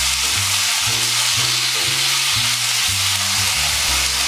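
Fresh green beans sizzling hard in hot garlic, olive oil and a splash of white wine in a cast iron wok, stirred with a spatula.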